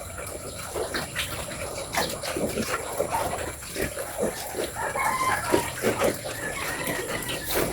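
Chickens clucking amid a run of short clicks and knocks, with a pitched call from about five to seven seconds in.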